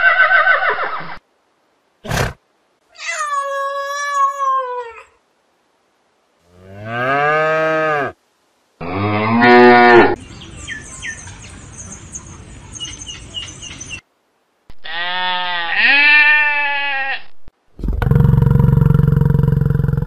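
A run of separate farm-animal calls cut one after another: horse whinnies in the first few seconds, the second falling in pitch, then several long cattle moos that rise and fall. A deep, loud bellow follows near the end.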